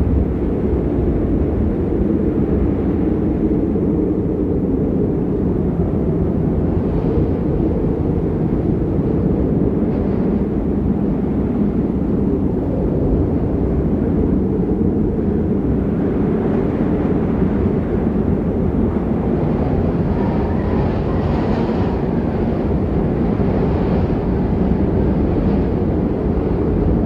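Wind in a snowstorm buffeting the microphone: a steady low rumble, with a hissing gust that swells about twenty seconds in.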